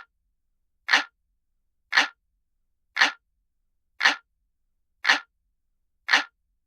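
Analog-clock ticking sound effect: one sharp tick each second, evenly spaced, all alike, with silence between.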